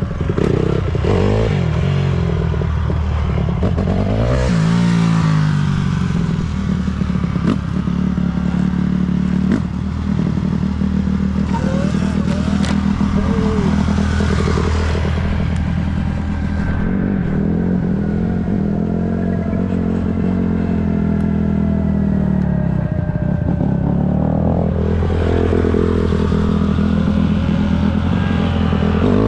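Dirt bike engine running under way, its pitch rising and falling several times as the throttle is opened and closed, with a rushing hiss in some stretches.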